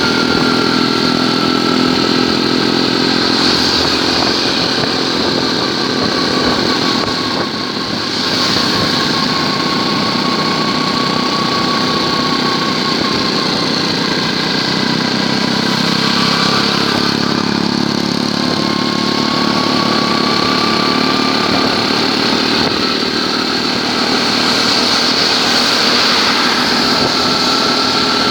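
Honda Cub motorcycle's small single-cylinder four-stroke engine running steadily under way, its pitch rising and falling gently with speed.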